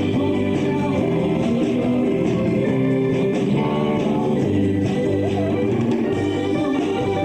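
A live bar band playing a blues-rock song, with guitars, bass and drums.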